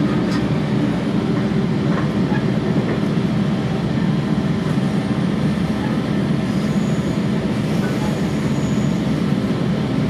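Inside a Sounder commuter train coach rolling steadily along the tracks: a constant low rumble of wheels and running gear, with a few faint rail clicks in the first couple of seconds.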